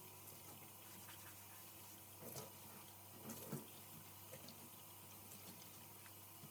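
Faint water sounds at a sink, with a few small knocks about two and three and a half seconds in; otherwise near silence.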